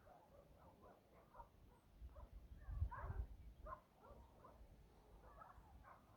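Small birds chirping faintly in short calls. There is a brief low rumble about two seconds in, like wind on the microphone.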